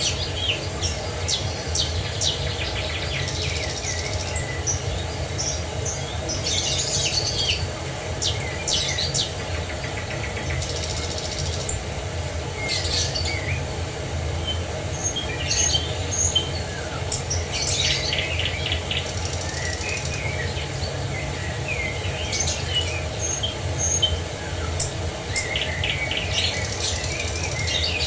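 Several songbirds chirping and trilling in short, overlapping phrases over a steady low rush of water.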